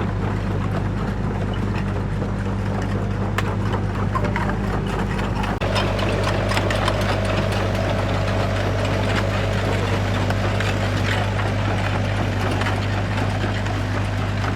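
An engine running steadily with a low hum and a busy rattle of clicks over it. About five and a half seconds in, a higher steady whine joins it.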